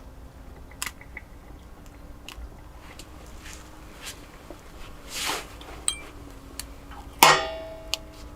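Camp cookware being handled: scattered light clicks, a short rustling swell, then a loud, sharp metallic clank about seven seconds in that rings briefly.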